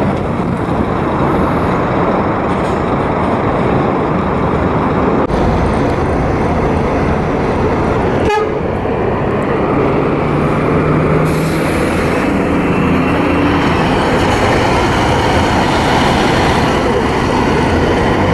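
Scania K400 coach's engine running, a loud steady rumble.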